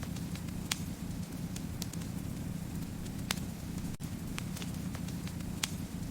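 Wood fire in a fireplace crackling over a steady low rumble of flame, with irregular sharp pops. The three loudest fall about a second, three seconds and five and a half seconds in.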